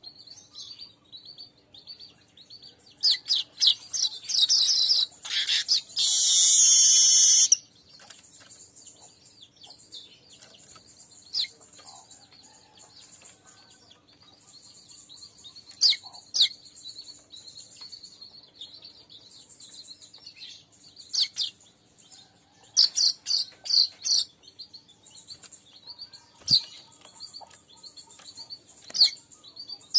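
Weaver birds (manyar) chattering over a continuous high, buzzy sizzle. A loud dense buzzing outburst comes a few seconds in, and a quick run of sharp chatter notes about three quarters of the way through.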